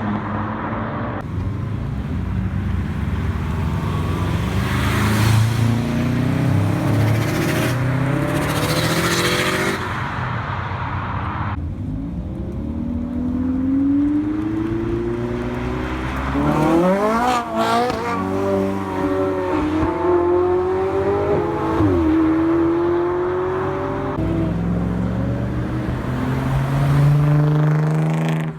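Several cars accelerating hard one after another, their engines revving up and shifting through the gears. The sound comes from a series of short clips spliced together.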